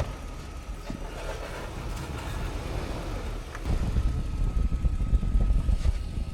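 Car engine running as the car is driven to try to move it out of deep snow, getting louder about two-thirds of the way through.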